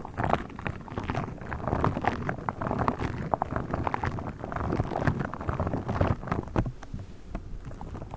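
A pink star toy handled close to the microphone: a dense run of quick, irregular crackles and taps over a low rumble.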